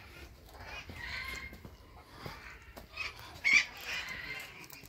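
Birds calling, several short calls with the loudest and sharpest one about three and a half seconds in.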